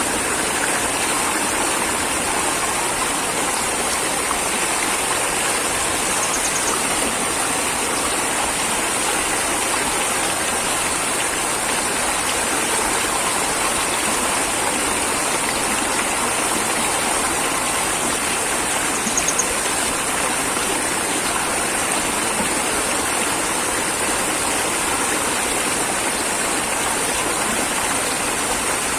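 Steady, even rushing of flowing water, unchanging throughout, with two faint brief ticks.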